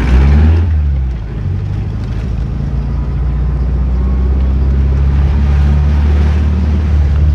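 Volkswagen Beetle's air-cooled flat-four engine, heard from inside the car while driving: it revs up, drops off about a second in, then pulls steadily again.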